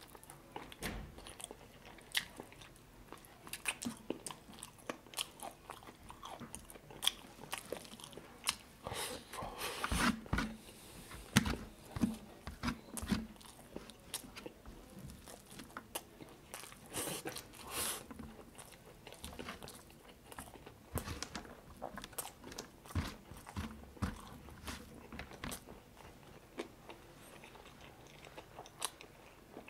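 Close-miked eating sounds of a person biting chicken adobo off the bone and chewing it with rice: irregular smacks and crunchy bites. The loudest bites come around ten seconds in and again around seventeen seconds in.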